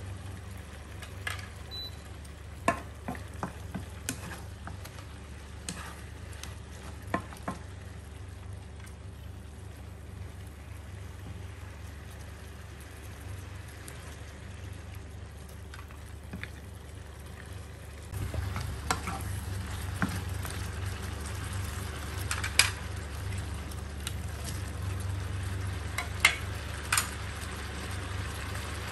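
Pork ribs sizzling in sauce in a non-stick wok, with a wooden spatula and fork clicking and scraping against the pan as they are stirred. The stirring and sizzling get louder about two-thirds of the way through, over a steady low hum.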